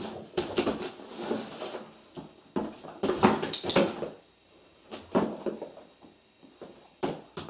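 A dog moving about in and around a cardboard box: irregular knocks and scuffs of paws on cardboard, coming in clusters with quieter gaps between them.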